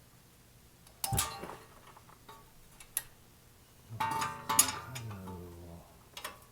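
Metal tools and coilover suspension parts clanking during disassembly. There is a sharp ringing clang about a second in, a single click near three seconds, and a longer ringing metallic clatter from about four seconds that dies away by six.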